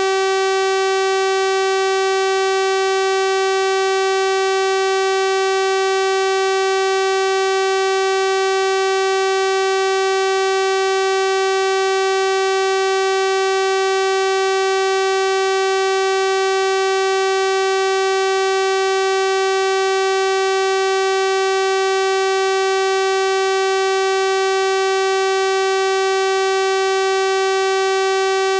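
Synthesized 384 Hz sawtooth-wave tone, a steady buzzy hum held at constant pitch and level, rich in evenly spaced overtones.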